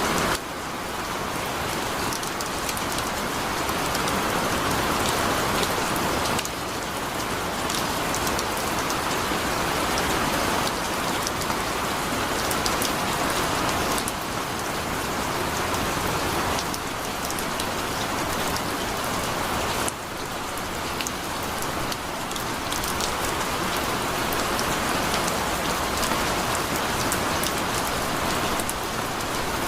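Heavy rain falling steadily, a dense even hiss of drops on surfaces. The level dips slightly and abruptly every several seconds before building back.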